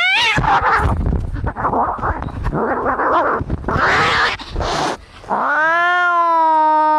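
Cats fighting: a rising screech, then harsh hissing and spitting for several seconds, and about five seconds in one cat starts a long, steady yowl.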